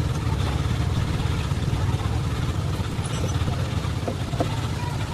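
An engine running at a steady idle, a low even rumble.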